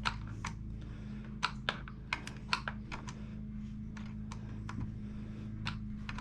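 Irregular light plastic clicks and taps, a dozen or so: a small screwdriver and fingers working a twist-in bulb socket out of a car's heater control panel.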